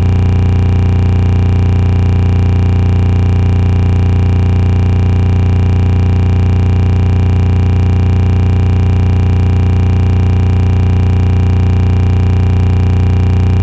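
A loud, perfectly steady humming drone made of many held tones, strongest in the low bass, unchanging throughout.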